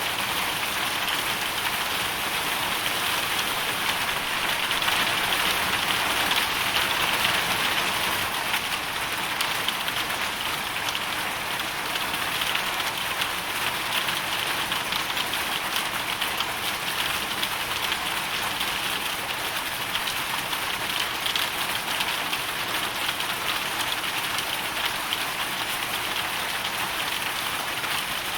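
Hailstorm: a dense, steady patter of hail and rain striking a surface, swelling slightly a few seconds in.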